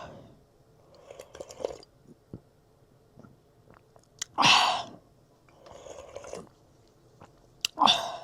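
Close-miked eating sounds: a person chewing food, with scattered soft mouth noises and two louder, sharper bursts about four and a half and eight seconds in.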